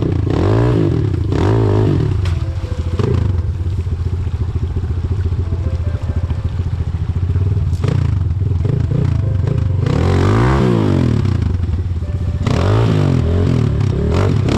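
Single-cylinder enduro motorcycle engine being revved up and down repeatedly, with the throttle worked hard and eased off several times as the rider picks his way through a difficult obstacle.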